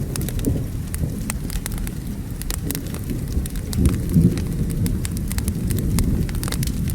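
Wood fire crackling with scattered sharp pops, over steady rain and a low rumble of thunder that swells about four seconds in.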